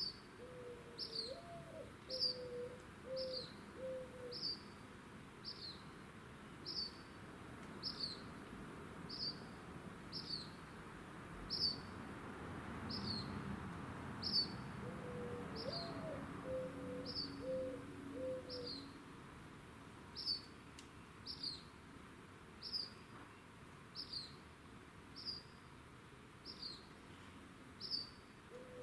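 A dove cooing twice: a low rising-and-falling note followed by three or four short steady notes. Over it, a high short falling chirp repeats about once a second. A soft rushing noise swells and fades in the middle.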